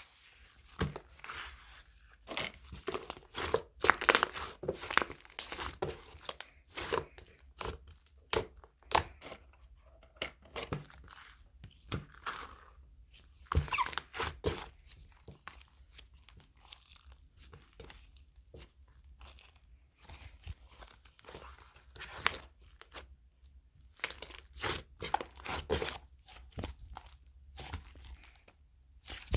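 Yellow slime being squeezed and stretched by hand, giving irregular sharp pops, clicks and crackles with short pauses between.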